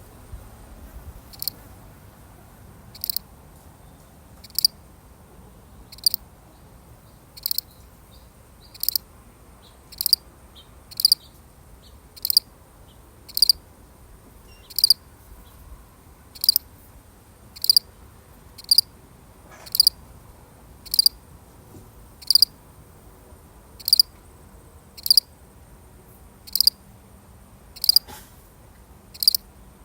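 A single field cricket chirping: short, evenly spaced chirps a little more than one a second, faint at first and then steady and clear.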